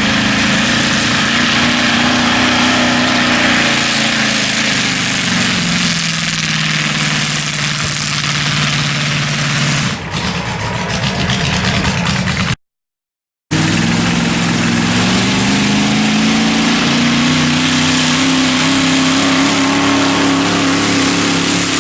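Mini modified pulling tractor's engine running loud at high revs under load; its pitch sags in the middle, the sound cuts out for about a second, then the pitch climbs again.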